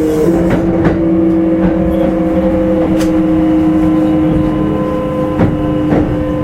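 Kintetsu 5200 series electric train motor car under way: steady whine from the traction motors and gears, its pitch drifting gently down, over the rumble of the running gear. A few short clicks from the wheels passing rail joints.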